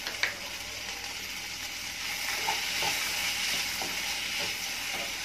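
Sliced onions, tomatoes and dried red chillies sizzling in oil in a non-stick pan as they are stirred, a steady hiss that grows a little louder about two seconds in. A few light knocks of the spatula against the pan come through the sizzle.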